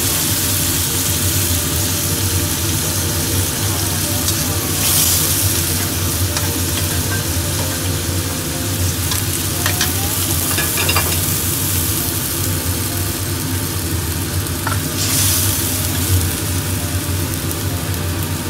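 Cubed tofu sizzling in hot oil in a wok. The sizzle swells twice, about five seconds in and again near fifteen, and a metal spatula scrapes and taps against the pan a few times around the middle. A steady low hum runs underneath.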